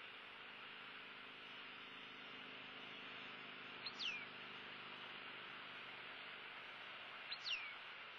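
Two short, clear whistled bird calls, each falling in pitch, about three and a half seconds apart, over a steady hiss.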